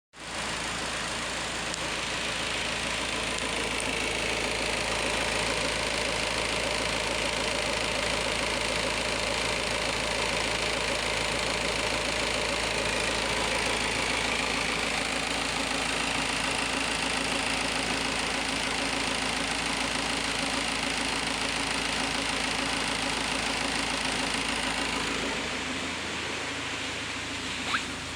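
Peugeot 308's 2.0-litre four-cylinder turbo diesel engine idling steadily until it is shut off about 25 seconds in, leaving a fainter steady hum.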